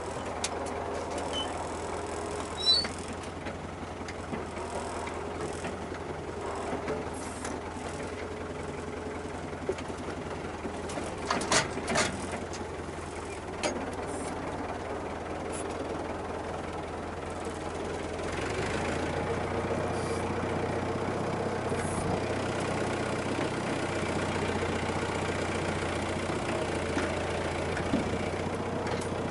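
Tractor engine running steadily, with a few short knocks and clanks about 3 seconds in and again around 12 seconds; the engine gets louder about two-thirds of the way through and stays there.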